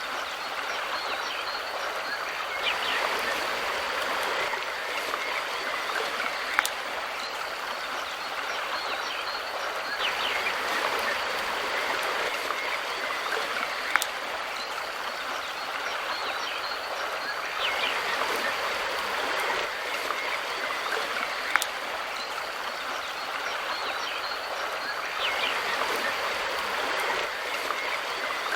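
Mountain river rushing steadily over stones, swelling and easing slightly in an even cycle. A short sharp click cuts through about every seven and a half seconds.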